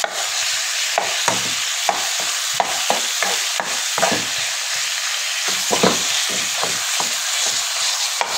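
Raw chicken mince and onion sizzling steadily in hot oil in a pan, with irregular scrapes and taps of a plastic spoon stirring and turning it. This is the first frying of the mince, cooked until the chicken changes colour.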